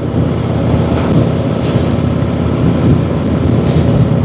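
Motorcycle riding at road speed, with wind rushing over the microphone and the engine running underneath as a steady low rumble.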